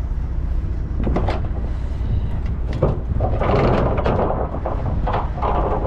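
Truck trailer's door locks knocking a few times, then two longer scraping rushes as the trailer door is worked open, over a steady low rumble.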